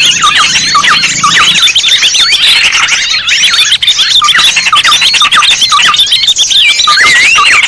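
Dense chorus of small songbirds chirping and chattering over one another, many quick up-and-down whistled notes with no break. It is a bird-lure (pikat) recording made to draw small birds in.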